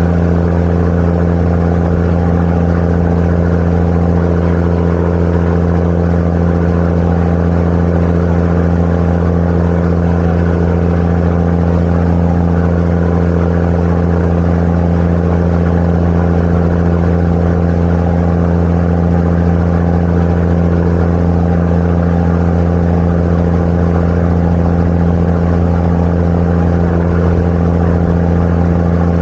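Sightseeing boat's engine running at a steady pace: a constant low drone whose pitch does not change.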